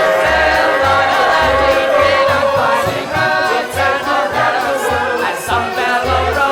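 Stage-musical ensemble singing a show tune in full chorus, accompanied by a pit band whose bass notes sound in short separate steps underneath.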